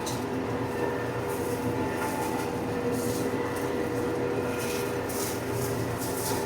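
TYM compact tractor's diesel engine running steadily under load, driving a PTO flail mower through brush. Several short hissing bursts come near the end.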